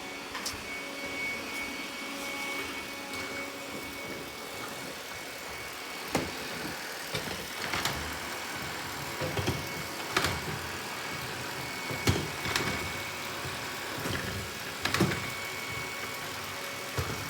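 Robot vacuum running with a steady motor hum and a thin high whine. From about six seconds in come several sharp knocks and clicks.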